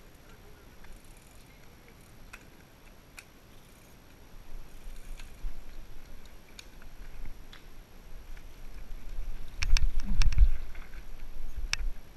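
Mountain bike rolling over a rough trail: low rumble with scattered clicks and rattles, growing louder about four seconds in, then a quick burst of sharp knocks and a heavy thump near ten seconds.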